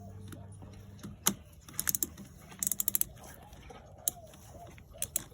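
Light clicks and rattles from handling a drill with a tyre-plug reaming tool fitted in its chuck, including a quick run of about six clicks midway; the drill motor is not running.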